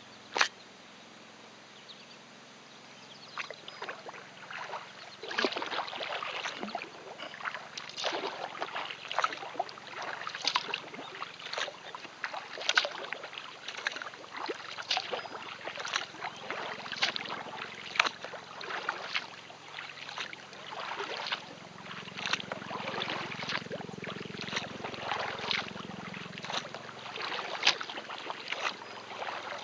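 Double-bladed kayak paddle dipping into the water in a steady rhythm of about one stroke a second, starting a few seconds in. A single sharp click sounds just before the strokes begin.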